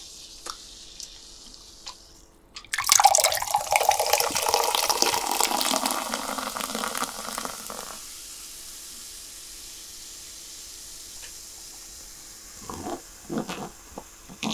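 Water running or being poured for about five seconds, starting about three seconds in and fading toward its end, then a few short soft sounds near the end.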